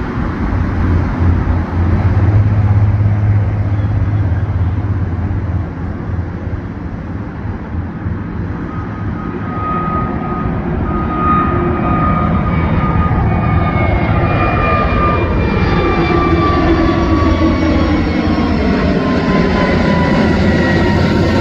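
Airbus A320 jet airliner taking off, its two turbofan engines at takeoff thrust: a loud, steady low rumble. In the second half, whining engine tones join in and shift in pitch as the plane passes.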